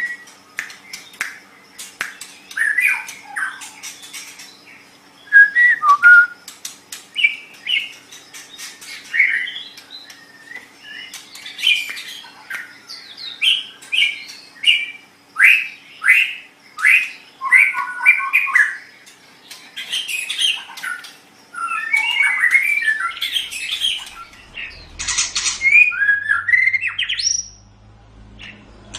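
White-rumped shama (murai batu) singing a long, varied song: one quick phrase after another of whistles, rising and falling glides, fast trills and sharp clicking notes, with brief gaps between phrases.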